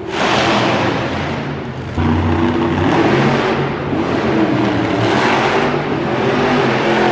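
Monster truck engine revving hard in repeated surges, the sound swelling and easing every second or two.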